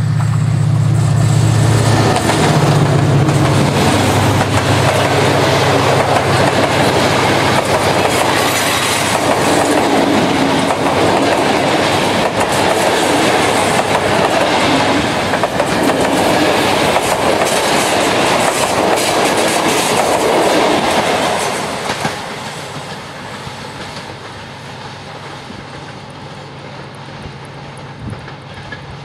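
Passenger train passing close by: a low steady hum from the locomotive in the first few seconds, then the wheel and rail noise of the coaches rolling past, loud for about twenty seconds before dropping away sharply as the train moves off.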